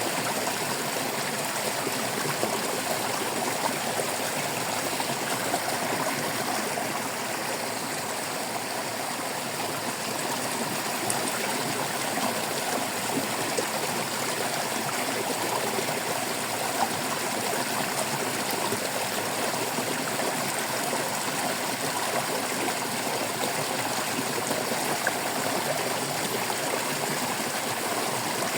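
A shallow stream babbling and trickling steadily over stones, an even rush with fine splashing detail.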